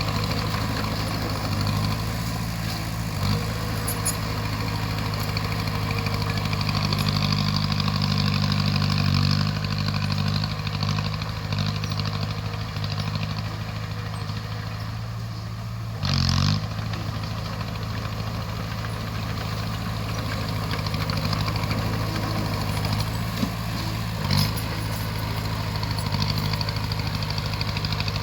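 Bulldozer's diesel engine running steadily, swelling louder for a couple of seconds, with a few short knocks and one brief, loud burst of noise about sixteen seconds in.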